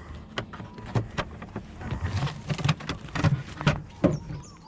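Irregular clicks and knocks of items being handled and moved around in a portable fridge-freezer, with a quick run of high chirps near the end.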